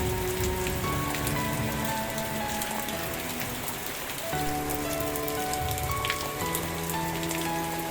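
Steady rain with many small drop ticks, under soft background music of held chords that change every second or two.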